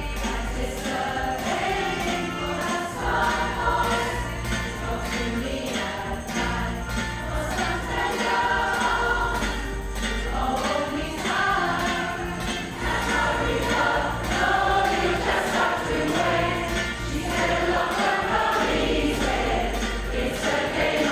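Choir singing, with low bass notes held underneath the voices.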